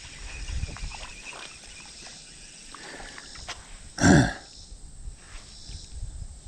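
Outdoor creek ambience of insects chirping under rustling and handling noise, with one brief loud burst about four seconds in.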